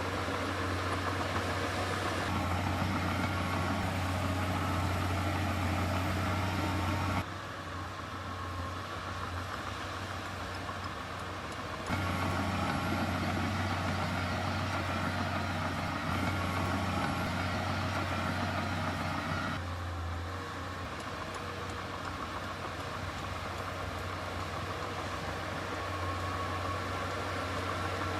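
Heavy diesel construction machinery running steadily with a strong low hum, the level dropping suddenly about seven seconds in, rising again about twelve seconds in and dropping again near twenty seconds.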